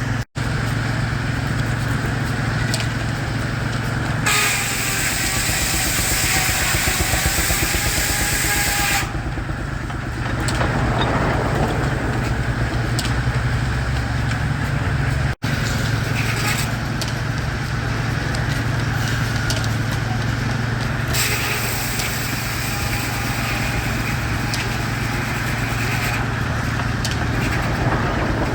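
Frick circular sawmill running steadily, its drive engine throbbing underneath. The blade passes through a log twice, each cut a hissing rip lasting several seconds.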